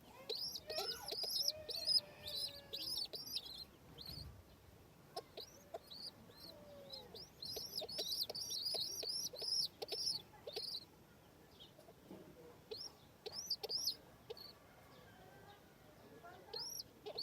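Baby chicks peeping: many short, high-pitched peeps in quick runs, with quieter gaps about four seconds in and again near twelve seconds.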